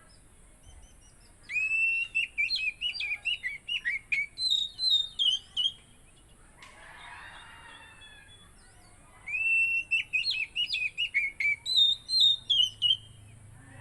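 Oriental magpie-robin (kacer) singing: two fast phrases of clear whistled notes, each opening with a rising note, running through rapid choppy notes and ending on a falling run. The second phrase starts about nine seconds in.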